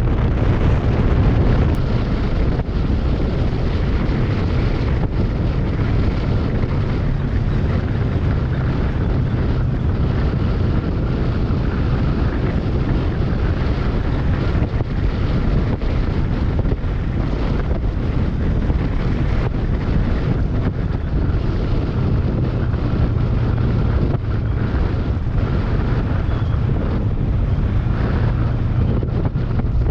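Wind rushing over the microphone on a moving motorcycle, with the steady drone of a Kawasaki Versys 650's parallel-twin engine underneath.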